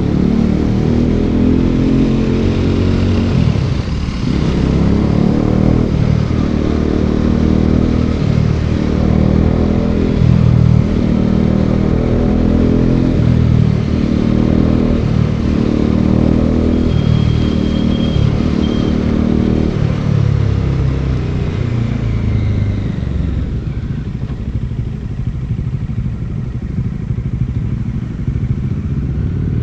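Bajaj Dominar 400's single-cylinder engine running on the move, its pitch rising and falling with throttle and gear changes. It settles to a quieter, steadier note about two thirds of the way through.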